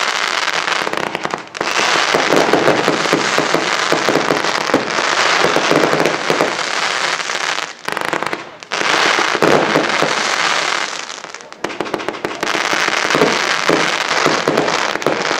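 Fireworks going off in a dense, near-continuous barrage of rapid crackling pops and bangs. It eases off briefly about a second and a half in, again around eight seconds and near eleven and a half seconds.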